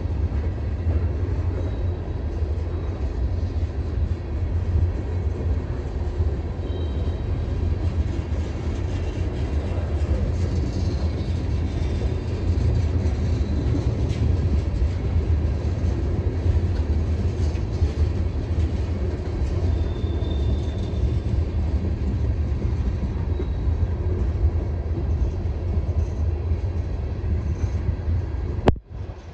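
Freight train cars, tank cars and covered hoppers, rolling steadily past, a continuous low rumble of steel wheels on rail. Near the end a sharp click and the sound suddenly drops.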